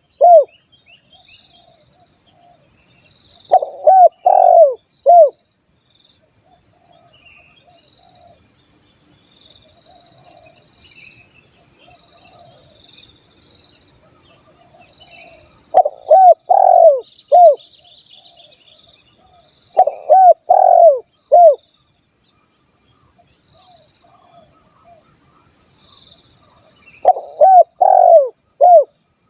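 Spotted dove (tekukur) cooing: four phrases of three or four coos each, the first a few seconds in and the rest in the second half. A steady high insect drone and faint chirps of other birds run underneath.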